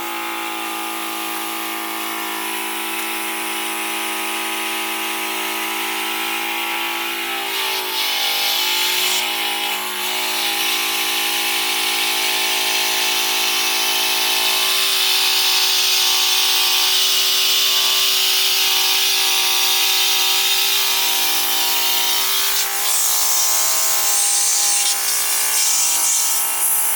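Battery-powered electric air pump running steadily, with a humming motor and air rushing, inflating a small inflatable beach ball through its valve. The motor's pitch wavers briefly about eight to ten seconds in.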